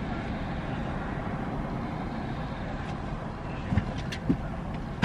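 Steady low rumble of an idling vehicle engine, heard from inside a parked car's cabin, with two faint knocks near the end.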